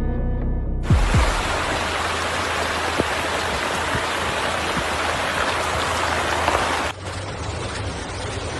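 Music with deep drum beats cuts off about a second in, giving way to a steady rush of torrential rain and running floodwater. The rush drops abruptly to a slightly quieter level near the end.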